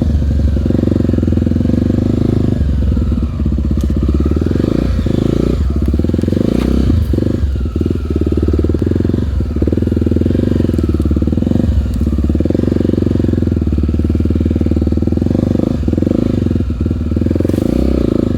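Single-cylinder four-stroke Honda trail-bike engine running under load, with the throttle rolled off and back on in short dips every few seconds.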